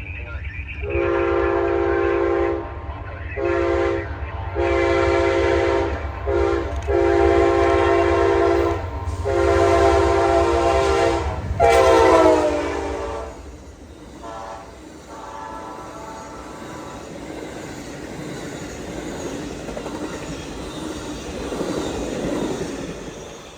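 Freight locomotive air horn sounding a chord in a series of long and short blasts, over the low rumble of the engine. The horn's pitch drops as the locomotive passes about 12 seconds in. After that it sounds fainter, and the cars roll by with a steady rumble.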